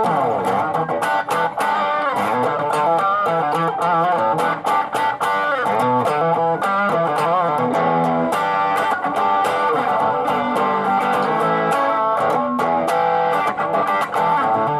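Electric guitar played through a clone of the ProCo RAT distortion pedal: a slide down at the start, then a run of changing notes with wavering, vibrato-like passages.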